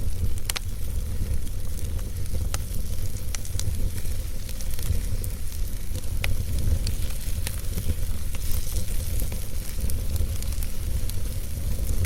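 Wood fire burning in a fireplace: a steady low rumble and hiss from the flames, with sharp crackles and pops from the logs at irregular moments, a second or more apart.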